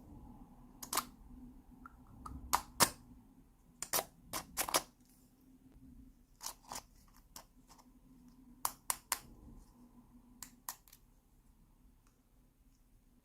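Sharp clicks and taps of small plastic miniature toy kitchen pieces being handled, coming in irregular clusters of two to four.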